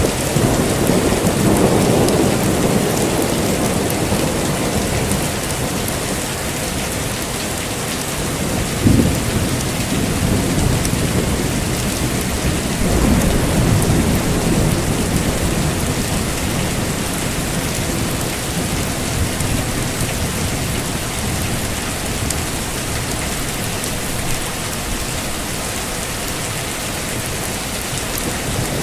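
Heavy rain falling steadily with rolling thunder: a rumble about a second in, a sharp crack about nine seconds in, and another long rumble a few seconds later.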